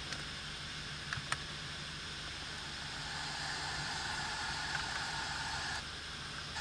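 Honda Civic engine idling steadily, with a couple of light clicks a little over a second in and a higher hiss that comes in about three seconds in and drops out near the end.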